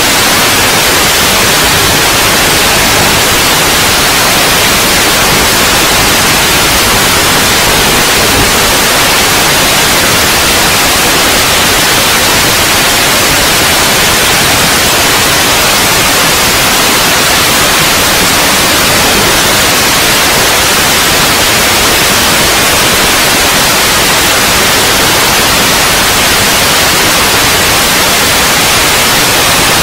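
Loud, steady static hiss that never changes, like the empty audio channel of an analog FPV video receiver's recording.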